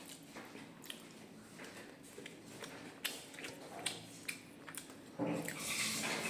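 Close-up eating sounds: soft chewing and wet mouth noises with small clicks. About five seconds in, a louder steady rushing noise comes in.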